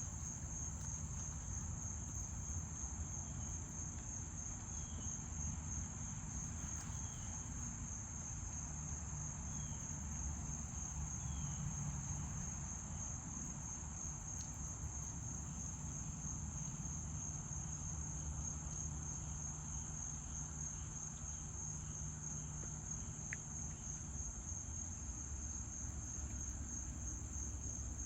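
Insects trilling steadily in one high, unbroken pulsing tone, over a low rumble.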